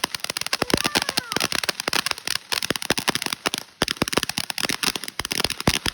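Consumer firework going off in a rapid, dense string of sharp pops and crackles, several every second.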